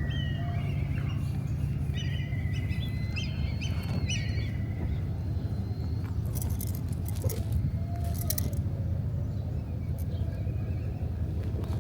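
Steady low outdoor rumble, with thin high whistled calls over the first few seconds and a few sharp clicks later on.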